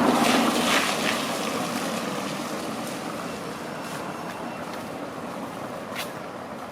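A vehicle passes close by, loudest in the first second, then fades away into steady street noise; a brief click about six seconds in.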